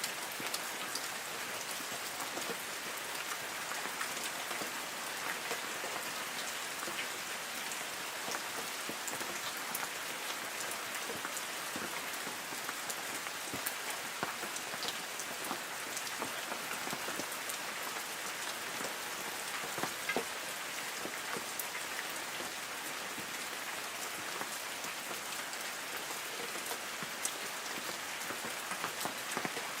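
Light rain falling on forest trees: a steady hiss of rain with many scattered drops pattering on leaves.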